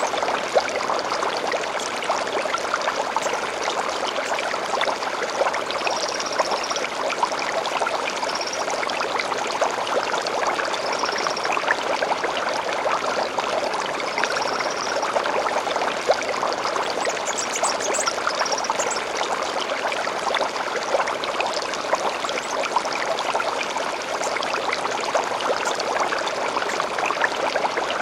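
Small stream flowing and trickling steadily, with short high bird calls every few seconds and a brief burst of higher twittering a little past the middle.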